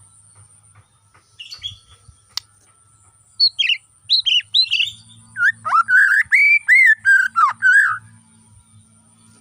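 Bornean white-rumped shama (murai batu) singing. After a few high whistled notes, a fast run of loud, rich, sweeping whistled phrases starts about halfway through and stops shortly before the end. A faint steady high whine and a low hum lie underneath.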